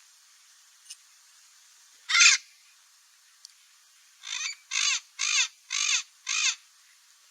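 A parrot giving harsh, raspy squawks: one loud call about two seconds in, then a run of five calls about two seconds later, roughly two a second.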